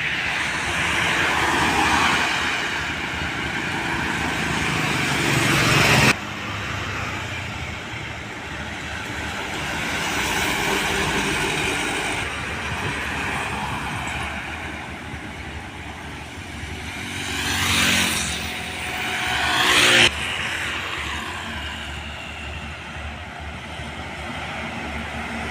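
Road traffic with heavy trucks passing close by: engine and tyre noise, with one vehicle's engine pitch rising and then falling as it goes past near the 18–20 second mark. The sound changes abruptly about 6 seconds in and again about 20 seconds in.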